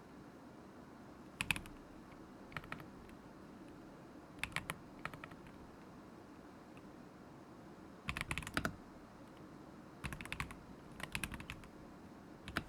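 Typing on a KZZI K75 Pro mechanical keyboard with Moment linear switches, in several short bursts of a few keystrokes with pauses between them.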